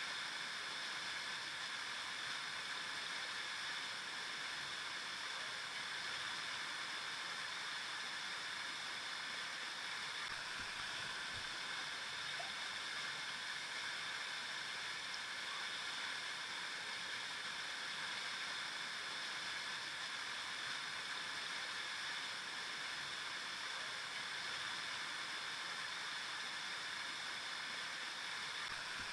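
River water flowing over rocks, a steady rushing hiss with no change.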